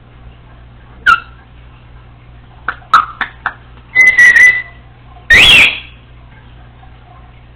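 Congo African grey parrot whistling and chirping: a short sharp call about a second in, then a quick run of chirps, a held whistle, and a very loud rising whistle.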